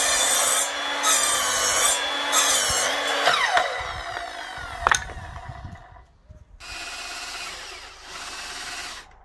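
Power saw cutting wood in repeated short bursts, then a falling whine as it winds down, one sharp click, and two further steady stretches of noise.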